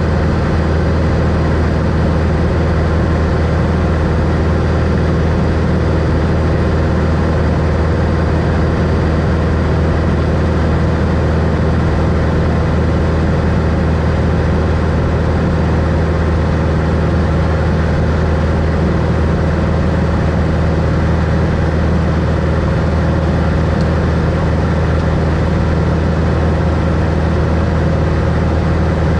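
Engine and propeller of a 1964 Cessna Skylane, a six-cylinder Continental O-470, running steadily as a loud, unchanging drone.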